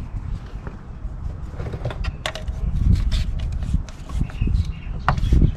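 Tool handling under a car: a few sharp clicks and knocks, the clearest about two seconds in and near the end, over low rumbling handling noise.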